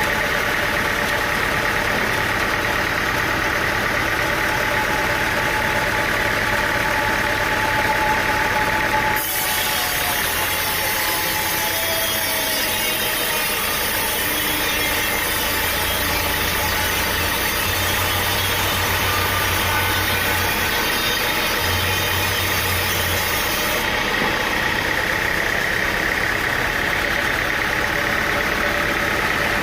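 An engine running steadily under machinery noise. The sound changes abruptly about nine seconds in, when a hiss joins it, and changes back again later.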